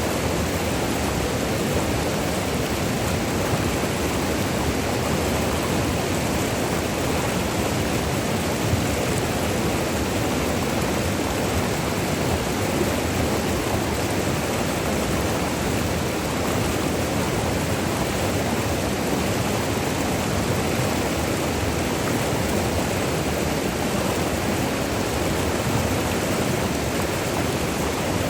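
River water rushing over small falls and rocks, a steady, even rush with no breaks.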